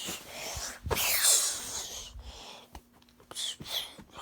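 A voice making breathy, hissing noise bursts with falling pitch, the loudest lasting from about one to two seconds in.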